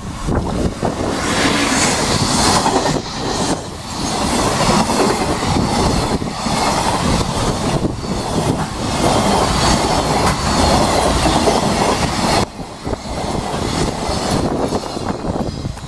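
Container freight train hauled by an EF81 electric locomotive passing close by: the locomotive and then a long string of loaded container wagons rolling past, with repeated clacks of the wheels over the rail joints. The noise drops somewhat about twelve seconds in as the wagons keep passing.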